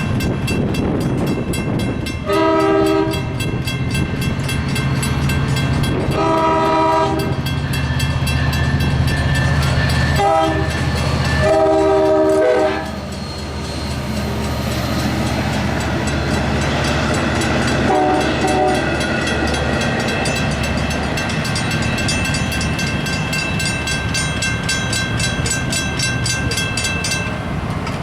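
A Nathan K5LA horn on an LIRR EMD DE30AC diesel locomotive sounds the grade-crossing signal, long, long, short, long, followed by a fainter short note about 18 seconds in, over the low rumble of the diesel and train. A Graham White electronic crossing bell rings steadily throughout and stops near the end, as the gates start to rise.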